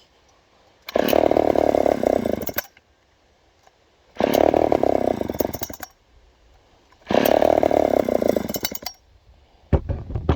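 Poulan 306A two-stroke chainsaw being pull-started three times. Each pull brings a burst of about a second and a half before the engine dies out again. It has not been started in a while and fuel is still working through it. A couple of sharp knocks near the end.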